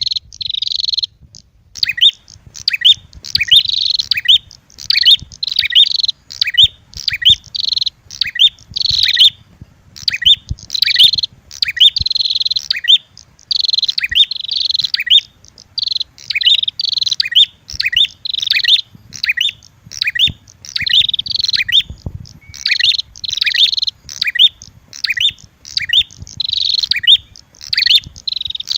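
Prenjak (red-headed prenjak) lure calls mixed with female prenjak fighting calls: loud, rapid high chirping phrases repeated about once or twice a second, with only short gaps between them.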